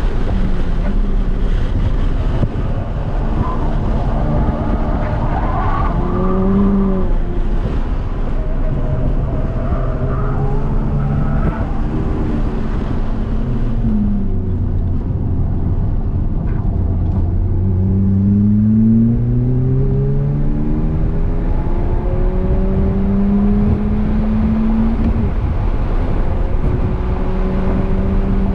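Modified 2006 VW GTI MK5 engine with a catless 3-inch downpipe and Magnaflow cat-back exhaust, heard from inside the cabin under track driving over steady road and wind noise. The engine note falls as the car brakes for a corner about halfway through. It then rises in pitch through each gear under hard acceleration, dropping back at each upshift.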